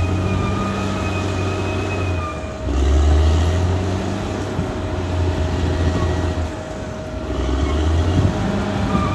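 Caterpillar D6R XL bulldozer's diesel engine running steadily. Its note drops and grows louder about three seconds in and again near seven and a half seconds, as it comes under load. A steady high whine rides over it for the first couple of seconds, fades, and comes back near the end.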